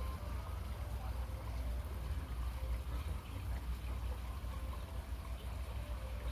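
Outdoor pond ambience: a steady low rumble with faint short high calls scattered through it.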